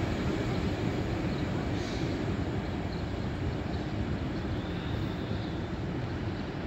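Passenger train running away along the track, a steady low rumble that slowly fades as it recedes.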